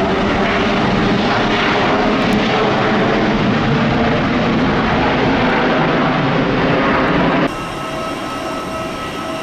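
Loud jet engine noise of a Boeing 747 airliner. About seven and a half seconds in it cuts off abruptly and gives way to a quieter steady hum with a high whine.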